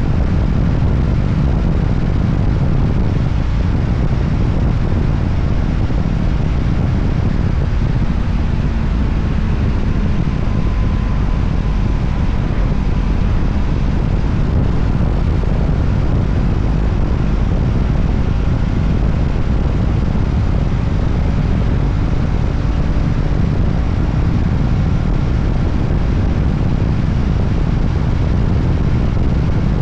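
Voge 300ACX motorcycle under way at a steady pace: engine running and wind rushing over the microphone in a constant, unbroken noise.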